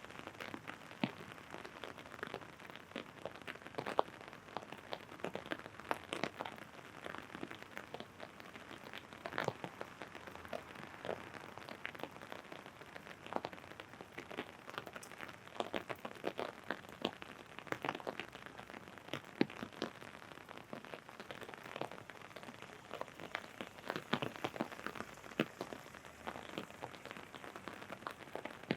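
Rain drumming on an umbrella held overhead: a steady hiss of rain with many separate, irregular sharp drop hits.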